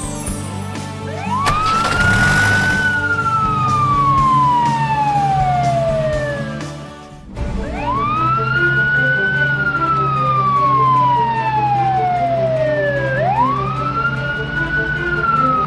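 Siren wailing in slow sweeps, each rising quickly and then falling over about five seconds, three times, over a steady low drone. A brief whoosh comes about two seconds in.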